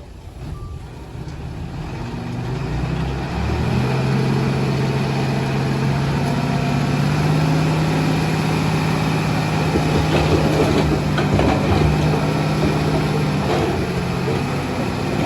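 Heavy diesel engine of earthmoving machinery running, growing louder over the first few seconds and then holding steady, with some clattering in the middle.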